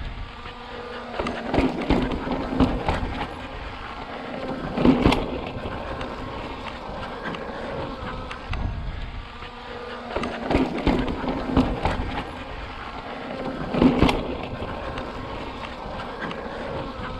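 Mountain bike rolling over slickrock: a steady tyre hum with knocks and rattles from the bike hitting bumps, the loudest about five seconds in and again near fourteen seconds.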